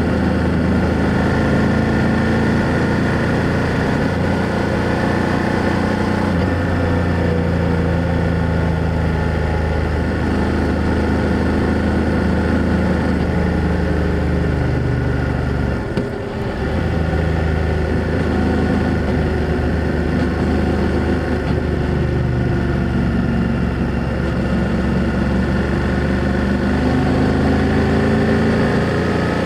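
BMW F800GS parallel-twin motorcycle engine and exhaust running under way, its pitch rising and falling with the throttle. There is one brief dip in level about halfway through.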